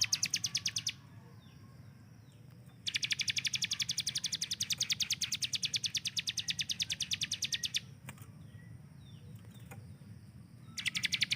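Bar-winged Prinia (ciblek gunung) singing its rapid-fire trill, a fast, even run of sharp high notes like machine-gun fire. The trill comes in three bursts: one stops about a second in, a long one runs from about 3 to 8 seconds, and another starts near the end. Faint short sliding chirps fall in the pauses.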